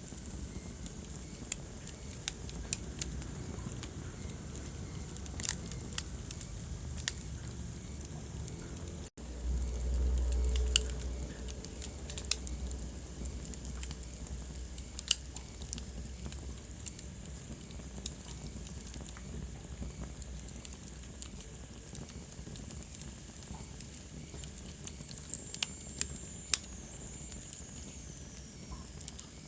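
Wood fire crackling in a fireplace: irregular sharp pops and snaps over a steady low rumble of the flames. The sound drops out for an instant about nine seconds in, then the low rumble swells for a few seconds.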